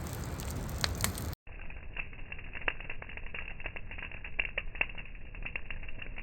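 Wood campfire crackling, with irregular sharp snaps and pops. The sound drops out briefly about a second in, then the crackling goes on sounding duller.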